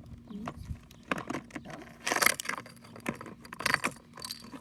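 Small hard toy pieces being handled, clicking and clattering, with two louder rattling bursts about two and three and a half seconds in.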